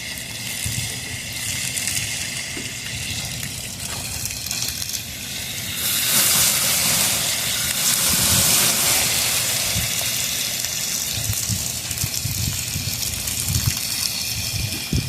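Garden hose spraying water, a steady rushing hiss that swells louder for a few seconds about six seconds in.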